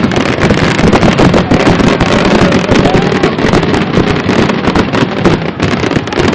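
Aerial fireworks in a dense, continuous barrage, with many rapid bursts and crackles running together.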